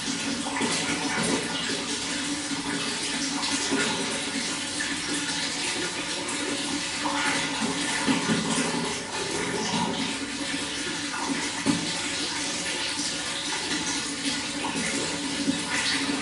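Running water flowing steadily, with a continuous rushing noise broken by small irregular splashes.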